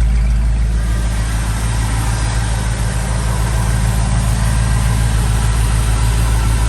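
1970 Ford F-250 Camper Special's engine idling steadily, shortly after a cold start with the engine still cold.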